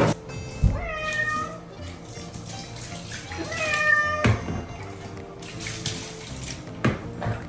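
Norwegian Forest Cat meowing loudly in protest while being bathed: two long, drawn-out meows, with a few knocks in between.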